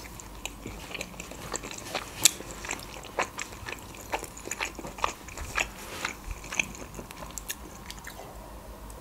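Close-miked chewing of a boiled pelmeni dumpling: wet mouth smacks and clicks at an irregular pace.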